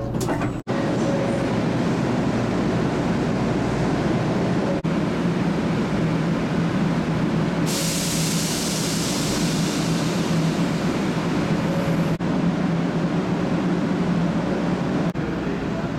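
Steady noise and low hum of a 500 Series Shinkansen standing at the platform. Several times the sound changes abruptly, and a harsher high hiss is added for about four seconds in the middle.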